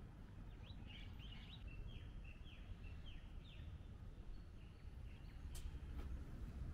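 A bird singing a run of short falling notes, about three a second, through the first half, over a faint low outdoor rumble. A single sharp click sounds near the end.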